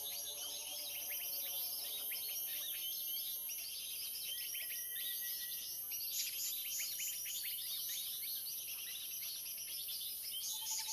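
A dense 'ruckus' of many small birds chirping and chattering at once, the kind of agitated-flock recording played as a bird-trapping lure, over a steady high-pitched hiss. The chatter grows denser about halfway through.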